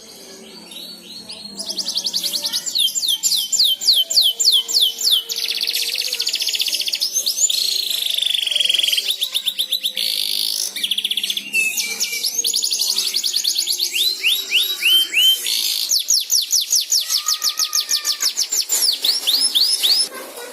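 Canary singing a long run of rapid trills and rolls: phrases of quickly repeated high notes that change pattern every second or two, starting about a second and a half in.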